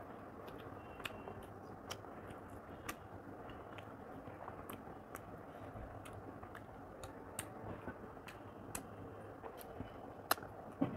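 Close-miked eating by hand: chewing with small wet mouth clicks and lip smacks, and the scattered light clicks of fingers working rice and chicken on the plate. The loudest clicks come near the end, as a mouthful goes in.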